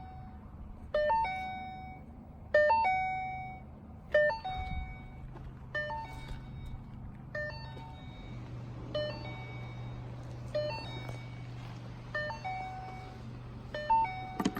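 Electronic warning chime of the Shelby GT500 run pallet's instrument cluster, with the key on and the engine not yet running. A short two-note ding-dong repeats nine times, about every one and a half seconds, over a low steady hum.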